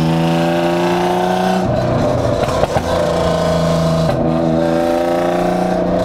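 BMW E36 with a swapped-in M52 inline-six, running loud with no proper exhaust, heard from inside the cabin as it accelerates through the gears. The revs climb, drop sharply for a shift about one and a half seconds in and again about four seconds in, then climb again. A few exhaust pops come on the lift-off between the shifts.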